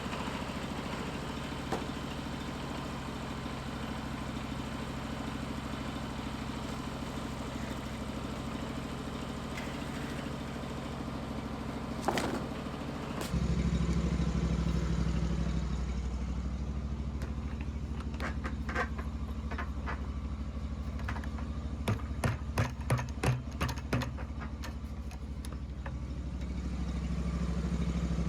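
Engine running steadily at a low, even speed. About halfway through it becomes louder and deeper. Near the end comes a quick series of about six knocks or clanks.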